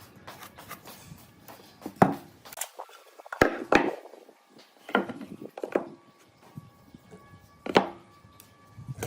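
Irregular knocks and thunks of wood being handled or struck, about six sharp hits spread unevenly, with faint music underneath.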